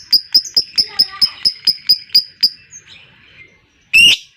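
Lovebird ngekek: a rapid string of sharp, high chirps, about five a second, that stops about two and a half seconds in. Near the end comes one loud, harsh screech.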